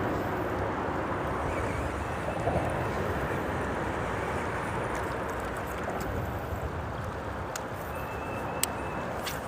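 Steady wash of creek water flowing over rocks mixed with the rumble of freeway traffic passing on the bridge overhead, with a few faint clicks.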